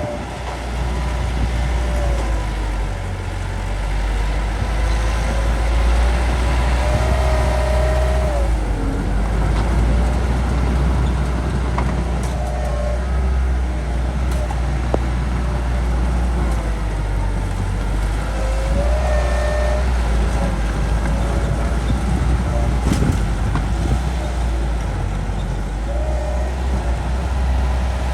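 Bulldozer's diesel engine working steadily under load while pushing earth. A wavering higher whine rises and falls several times, with a few sharp clanks.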